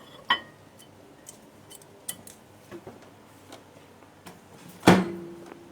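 Microwave oven's glass turntable plate and its support being fitted inside the oven: light clinks and clicks of glass and plastic, a sharp knock just after the start and a loud knock about five seconds in, followed by a short ringing tone that fades.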